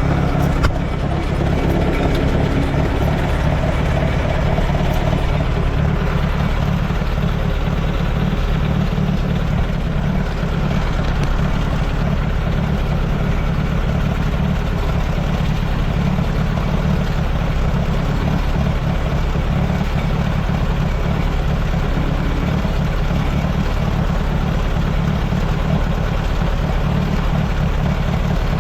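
1948 Allis-Chalmers C tractor's four-cylinder engine running steadily at idle, loud and close.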